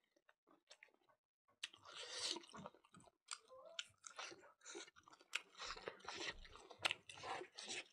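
A person chewing mouthfuls of mutton curry and rice, with irregular wet mouth clicks and crunching.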